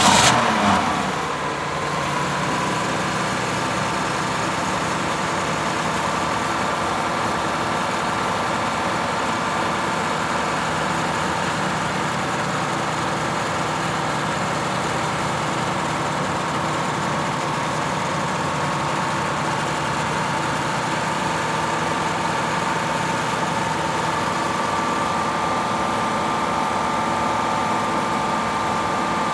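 Vehicle engine just after starting: the revs fall away over the first couple of seconds, then it settles into a steady idle.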